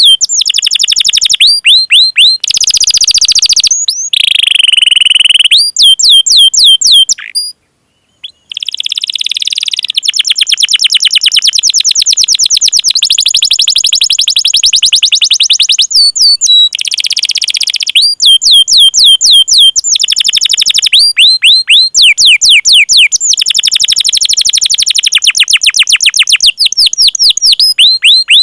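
Domestic canary singing a long song of rapidly repeated rising 'cuit cuit' chirps and rolling trills, with a short break about seven and a half seconds in.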